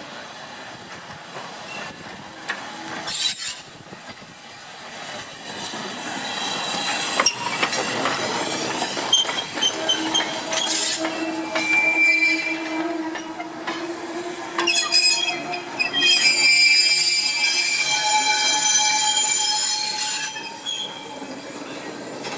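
Railway wheels squealing against the rails as a steam locomotive and wagons move during shunting. The squeal comes in high-pitched bursts and is loudest in the second half, with a few sharp knocks along the way.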